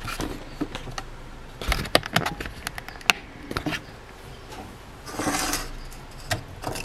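Light knocks and clicks of used oil filters being handled and set down on a hard surface, with a brief scraping rustle about five seconds in.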